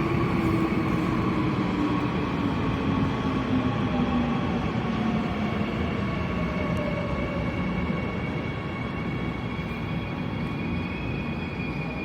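Seoul Subway Line 9 train running at the platform: rumbling wheel and running noise with an electric motor whine whose tones slide down in pitch over several seconds, and a higher whine rising again near the end.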